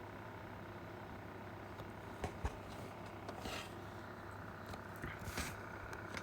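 Pencil scratching across paper in a couple of brief strokes, after two light knocks, over a steady low hum.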